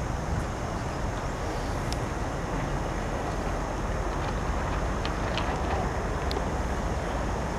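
Steady rushing wind and water noise aboard a sailing boat under way, with a few faint ticks.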